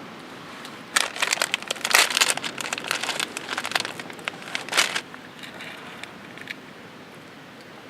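Crinkling and crackling of something like plastic packaging being handled, in a dense run of sharp crackles from about a second in until about five seconds, then only faint background.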